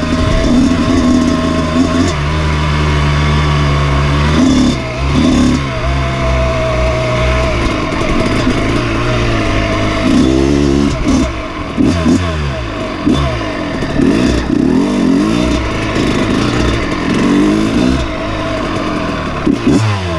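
Dirt bike engine running and revving. Its pitch holds fairly steady for the first few seconds, then rises and falls over and over with the throttle through the second half.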